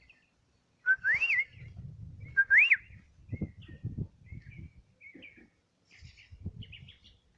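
Two loud whistled notes, about a second and a half apart, each sliding up and dropping back down, followed by a scatter of faint, short bird chirps.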